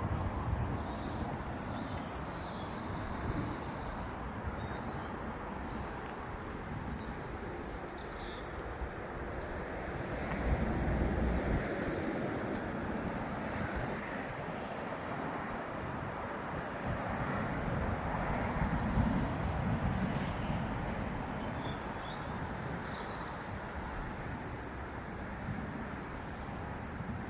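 Outdoor ambience: a steady rumble that swells twice, with birds chirping near the start and again later.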